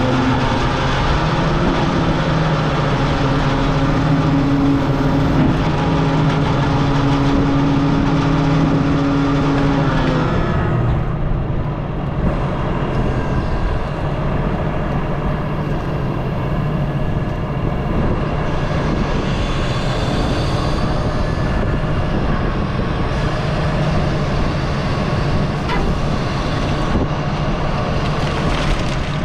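Heavy equipment running hard, its diesel engine and hydraulics carrying a grapple saw, with a steady whine for about the first ten seconds. The whine then drops away and the engine keeps running.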